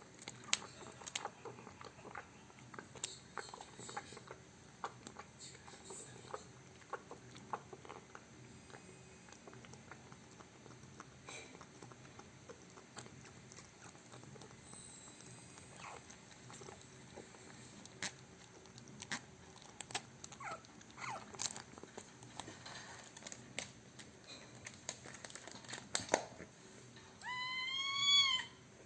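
A cat's small clicking and rustling sounds, then a single meow of about a second near the end.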